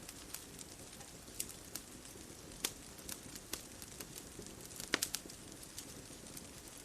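Wood fire crackling: irregular sharp pops and snaps over a steady low rush, with the loudest cluster of pops about five seconds in.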